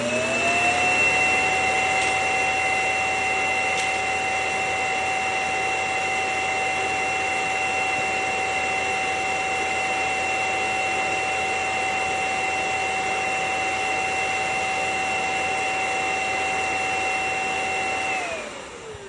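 Roborock S7 auto-empty dock's suction motor emptying the robot vacuum's dustbin: a loud, steady vacuum whine that spins up at the start, runs evenly, and winds down with a falling pitch about 18 seconds in.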